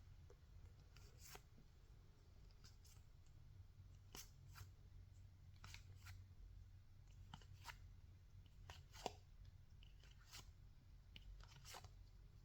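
Near silence with faint, scattered soft clicks, roughly one a second, of trading cards being flipped through and set down by hand.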